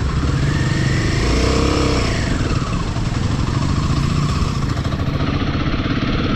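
Royal Enfield motorcycle engine running under way, its pitch rising and then falling about a second in.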